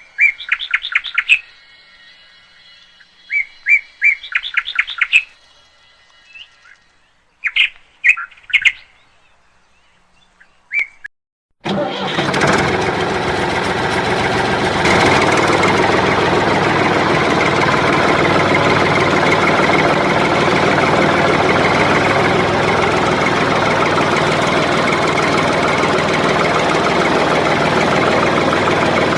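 Birds chirping in short repeated bursts. About twelve seconds in, this cuts out and a loud, steady mechanical running noise starts abruptly, like a small motor or engine.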